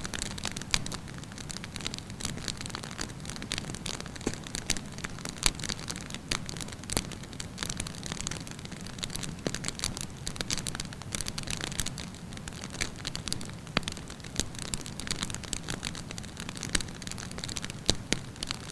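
Wood campfire burning, with many small irregular crackles and occasional louder pops over a steady low rumble of flame.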